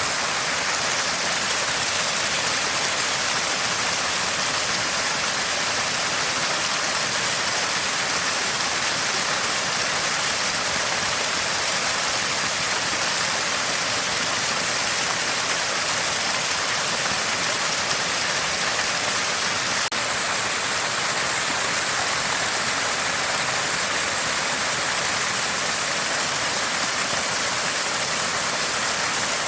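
Water gushing from a small spring, a constant even gurgling and splashing.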